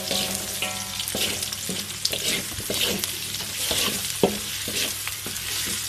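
Spice paste, lemongrass and lime leaves sizzling in hot oil in an aluminium wok, stirred with a wooden spatula that scrapes and knocks against the pan, with a sharper knock about four seconds in.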